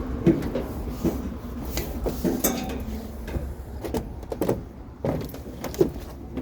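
Irregular knocks and clatters over a steady low engine rumble.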